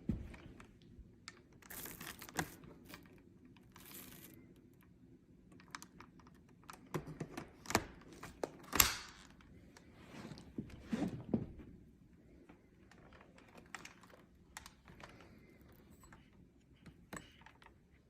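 Scattered clicks, taps and rustles of a Shark vacuum cleaner and its power cord being handled while the motor is off, with a louder knock about nine seconds in.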